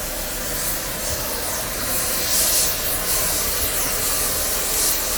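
Steady hissing noise that swells louder twice, about two and a half seconds in and again near the end.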